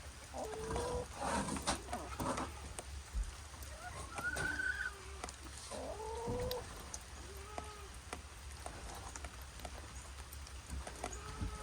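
Backyard hens clucking and giving short, arching calls, several in a row, with scattered small ticks between them.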